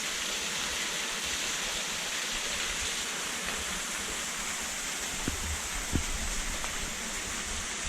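Small waterfall rushing steadily into a gorge, with two faint knocks about five and six seconds in.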